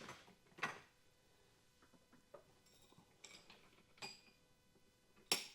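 Small metal parts being handled on a workbench: a few scattered knocks and clinks, some ringing briefly, the loudest clink near the end.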